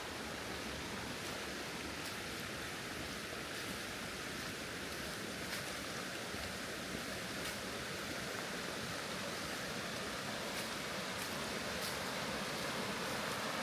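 Steady rushing outdoor noise, with faint footsteps on the path about every one to two seconds.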